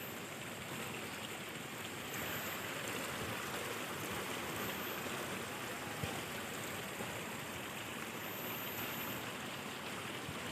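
Steady rushing of flowing water, like a stream or irrigation channel, even throughout and a little louder from about two seconds in.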